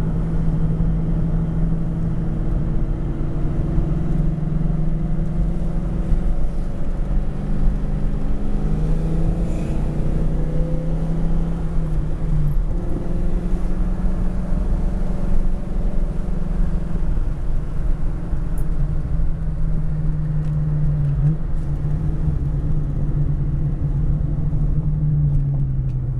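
1995 Ford Mustang GT's 5.0-litre V8 running at cruising speed, heard from inside the cabin with road and tyre rumble. The engine note shifts in pitch a few times as the car's speed changes.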